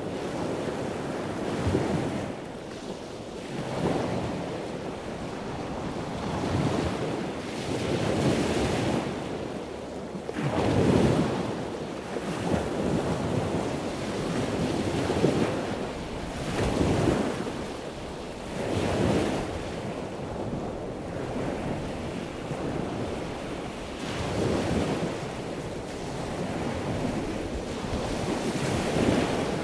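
Ocean surf: a steady wash of water noise that swells and falls every two seconds or so.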